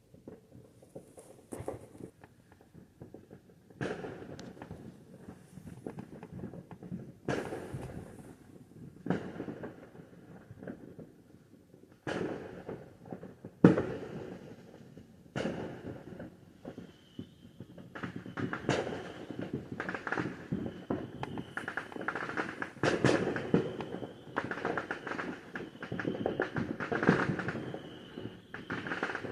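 Fireworks going off outside: scattered sharp bangs and crackles at first, one especially loud bang about halfway through, then a dense, nearly continuous barrage of pops and crackles.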